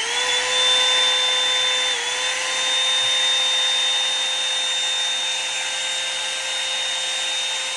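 Revlon One Step Volumizer hot air brush running on its cool setting: a steady high motor whine over a rush of blowing air. It rises into its steady pitch at the start and dips briefly about two seconds in.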